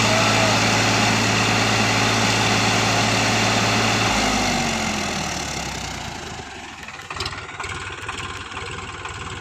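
Eicher tractor's diesel engine running at a steady pitch. From about four seconds in, its pitch drops and the sound fades away over the next few seconds.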